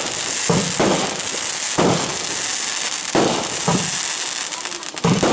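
PGE Big Profi 50-shot firework battery, 20 to 30 mm calibre, firing shot after shot, about five sharp reports roughly a second apart over a steady high hiss.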